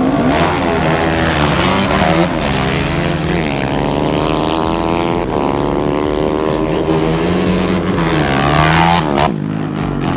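Motorcycle engines accelerating hard on a drag-race run, the pitch climbing and dropping back at each gear change, several times over.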